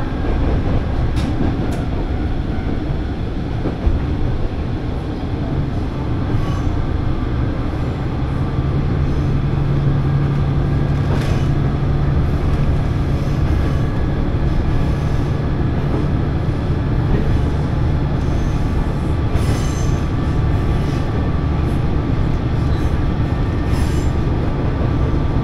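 Diesel railcar running along the line, heard from inside the cabin: a steady low rumble of engine and wheels with a few faint clicks over the rails. A low engine drone strengthens from about eight seconds in.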